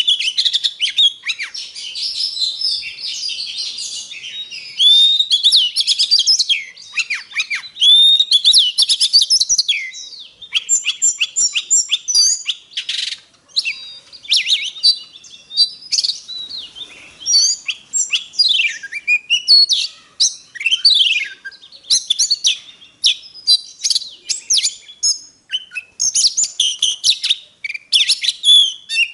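Oriental magpie-robin singing a long, varied song of clear whistles, chirps and quick up-and-down glides, breaking into runs of rapid short, sharp notes in the second half.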